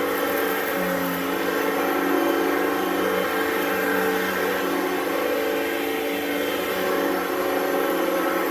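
Upright vacuum cleaner running steadily, its motor giving a constant whine with a slight shift in pitch about a second in.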